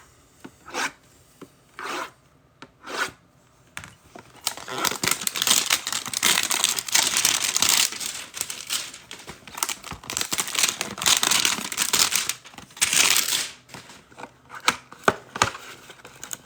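A trading card pack wrapper being torn open and crinkled in the hands. It starts with a few short separate rustles, then a long stretch of continuous crinkling, then scattered crackles near the end.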